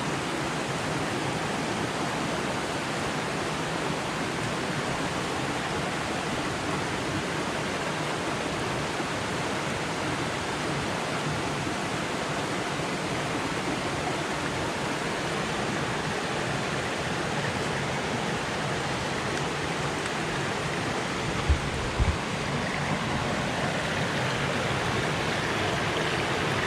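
Creek water rushing steadily over rocks, an even continuous rush. Two brief low thumps come close together about three quarters of the way through.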